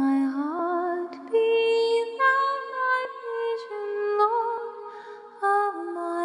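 Layered a cappella voices holding long notes in harmony, the chord shifting to new pitches every second or so, with a slight vibrato on the held notes.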